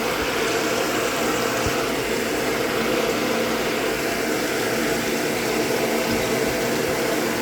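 Hoover Automatic 820 washing machine running during its rinse cycle: a steady mechanical hum.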